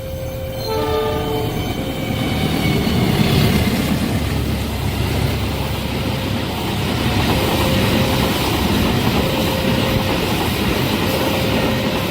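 A train passes at speed, its wheels rumbling and clattering over the rails, after a horn sounds near the start. A short tone repeats at an even pace through the second half.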